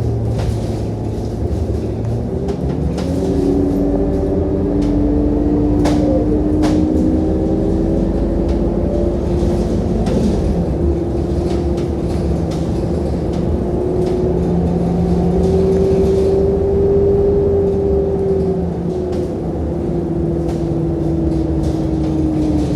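Scania K230UB single-decker bus's five-cylinder diesel engine and drivetrain running on the move, heard from inside. A steady tone rises and falls slowly as the bus accelerates and eases off, over a low rumble, with two sharp clicks about six seconds in.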